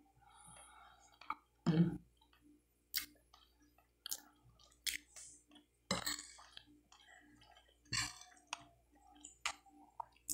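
A person chewing a mouthful of chicken liver and rice close to the microphone, with wet smacking and clicking mouth sounds. A few louder wet mouth noises come about two, six and eight seconds in.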